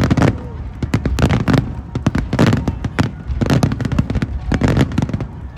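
Aerial fireworks bursting in a rapid, irregular series of loud bangs, about two to three a second, some overlapping, each followed by a low rolling echo.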